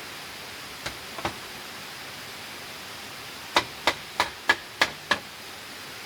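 Six sharp, evenly spaced knocks of a hand tool striking, about three a second, after a few softer taps, over a steady rushing noise.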